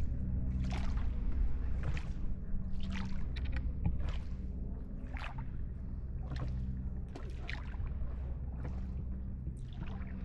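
Oars or paddles of a small rowed boat stroking through the water, a swish about once a second, over a steady low hum.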